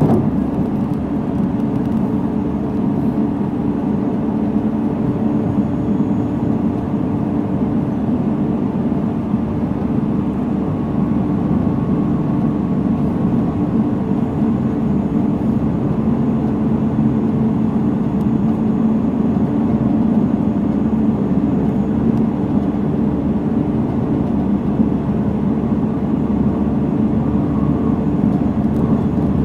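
JR Central 313 series 300 subseries electric train running at a steady speed: an even rumble of wheels on rails.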